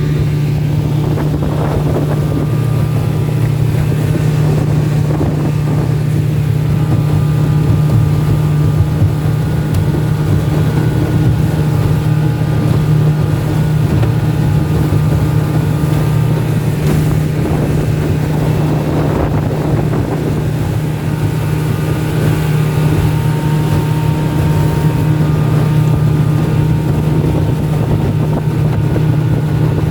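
Selva 15 hp outboard motor running steadily at speed, pushing a small boat along, with wind buffeting the microphone.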